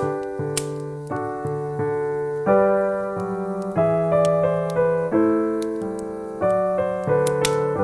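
Piano music: a gentle tune of struck chords and melody notes, each fading after it sounds, changing every half second or so. A few faint sharp clicks come through, one about half a second in and one near the end.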